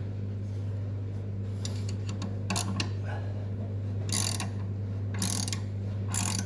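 Socket ratchet clicking in several short bursts while blade bolts are run onto a mower deck, over a steady low hum.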